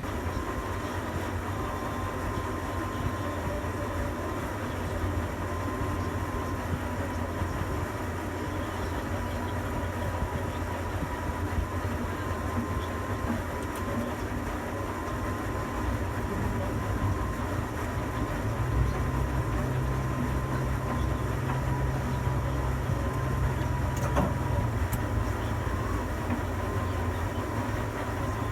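Tower crane's electric drive motors running, heard from inside the operator's cab: a steady low hum with a thin high whine over it, the hum growing stronger for about six seconds past the middle as a drive works harder, then settling back.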